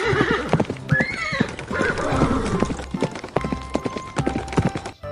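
A horse whinnying, then hooves clip-clopping. A wavering neigh fades out at the start and a second, shorter whinny comes about a second in, over a light background music beat.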